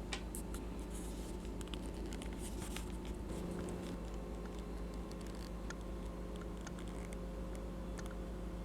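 Light, irregular clicks and scratches of small die-cast and plastic toy models being handled, over a steady low electrical hum.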